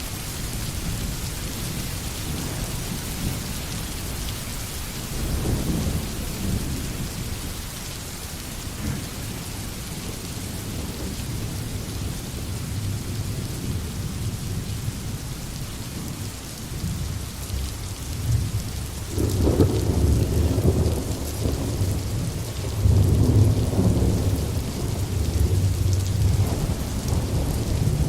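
Steady heavy rain hissing on a forest, with rolling thunder: a brief rumble about five seconds in, then longer, louder rumbling from about two-thirds of the way through to the end.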